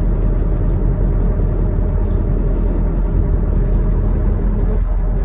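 Charter boat's engine running steadily with a loud, even low rumble.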